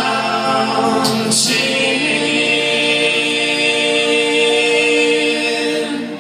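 Male voices singing in close harmony with little or no accompaniment, the last line drawn out into one long held chord from about two seconds in.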